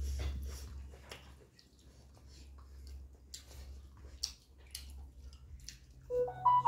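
Close-up mouth noises of chewing and lip-smacking while eating rice by hand, with short clicks and ticks of fingers and food against a steel plate over a low steady hum. A brief pitched sound comes in near the end and is the loudest moment.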